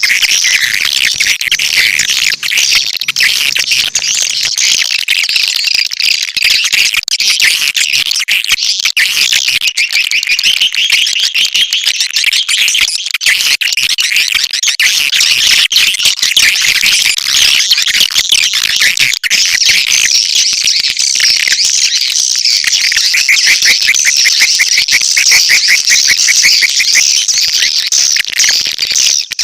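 Swiftlet calls, dense and unbroken: high-pitched chirping and rapid twittering trills. It is a swiftlet lure call, the kind played to draw swiftlets into a nesting house.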